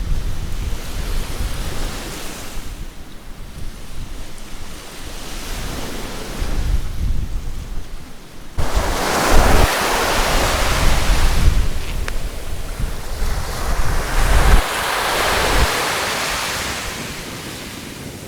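Sea waves washing in and breaking on a beach, with wind buffeting the microphone. The surf swells and falls in surges, turning suddenly louder about halfway through and then fading near the end.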